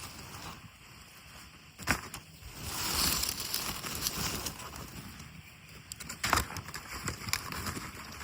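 Outdoor noise with a swell of wind about a third of the way in, and two sharp knocks, one about two seconds in and one near six seconds.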